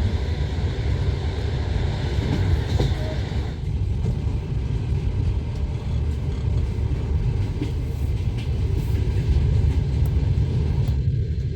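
Passenger train running, heard from inside a carriage: a steady low rumble of wheels on the rails. A hiss above the rumble drops away about three and a half seconds in.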